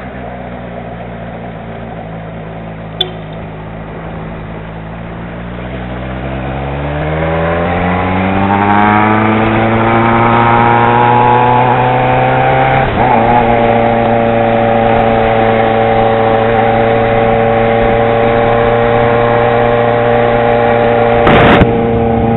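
Yamaha XJ6 motorcycle's inline-four engine running low and steady, then accelerating with a rising note for several seconds. After a short break about thirteen seconds in, it holds a steady higher note while cruising.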